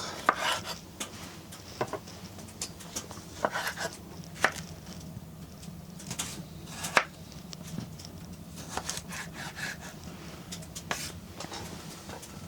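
Irregular rustling, scraping and light knocks of food being handled and opened, such as packets and containers, over a steady low hum.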